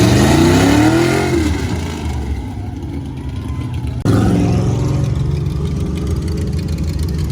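A car engine revving up hard for about a second, then easing off and fading. After an abrupt cut about four seconds in, an engine running steadily at lower revs.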